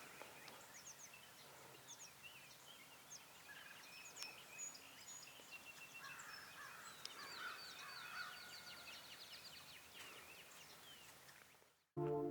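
Faint spring birdsong from several small birds, chirping and whistling, with a rapid falling trill about seven seconds in. It cuts off near the end as brass music comes in.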